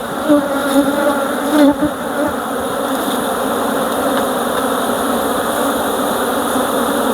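Honeybees buzzing steadily in a dense hum around an opened hive, with a few light knocks in the first two seconds as frames are handled.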